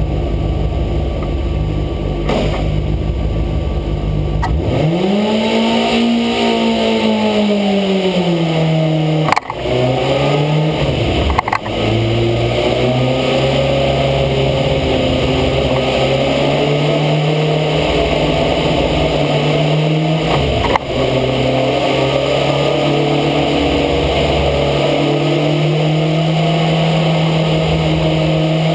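Motorcycle engine under test. After a few seconds of low rumble its note climbs and falls, breaks off briefly three times at gear changes, and then holds a steady high pitch at speed.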